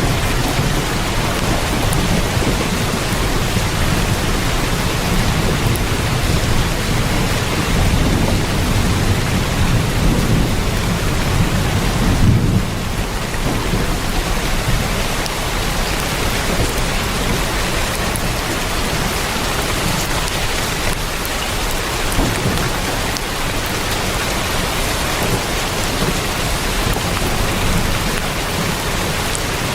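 Heavy rain drumming steadily on a tin roof. Underneath it, a low rumble swells and then stops abruptly about twelve seconds in.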